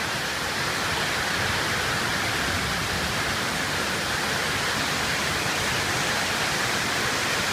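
Heavy rain pouring down steadily, an even, unbroken rush of water.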